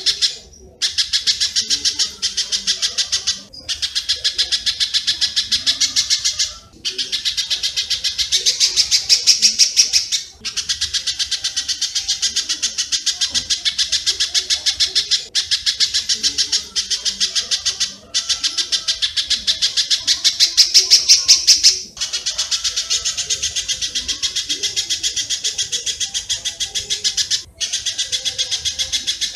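Master recording of spiderhunter (pijantung) calls mixed with swiftlet (walet) calls: dense, rapid, high chirping in runs of a few seconds, broken by short gaps.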